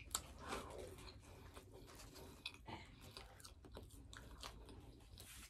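Faint chewing with soft crunching clicks, from a fried chicken sandwich and fries being eaten.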